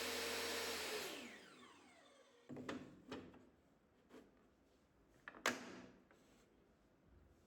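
A power tool's electric motor runs, is switched off about a second in, and spins down with a falling whine. It is followed by several sharp knocks and clicks, like wood pieces being handled and set down.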